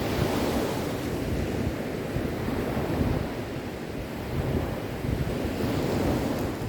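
Sea waves washing in steadily, with a deep rushing surge that swells and eases, strongest near the start and again about six seconds in.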